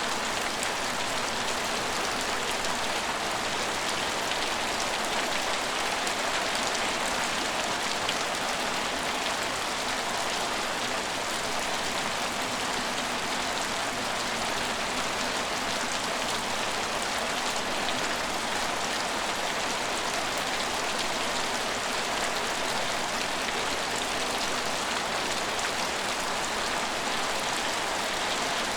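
Steady rain falling on hard surfaces, an even hiss with fine scattered drop ticks.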